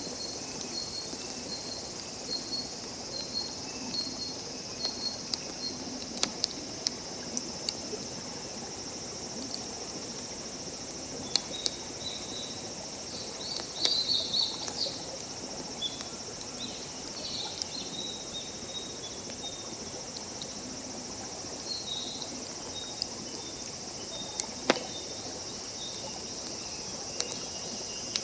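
Crickets chirping in short repeated pulses, about two a second at first, over a steady high insect hiss, with scattered sharp pops and crackles from a wood campfire.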